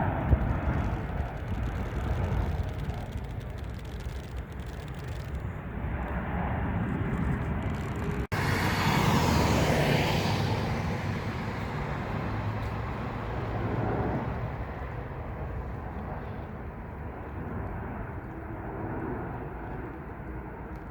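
Jet airliner engines heard as a steady broad rush of noise. A sudden break comes about 8 s in, then the rush swells briefly louder and fades slowly.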